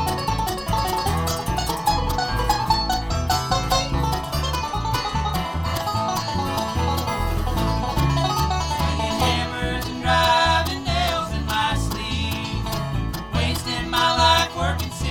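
Live bluegrass band playing an instrumental passage: fast picked string instruments over a steady, pulsing bass line.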